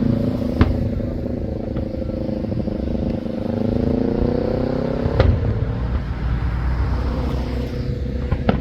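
A motor vehicle engine running close by, its pitch drifting slowly up and down, with three sharp firework bangs: about half a second in, about five seconds in (the loudest), and near the end.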